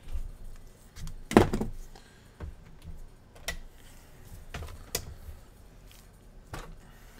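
Scattered clicks and knocks of tools and small parts being picked up and set down on a workbench, about seven in all, the loudest about a second and a half in.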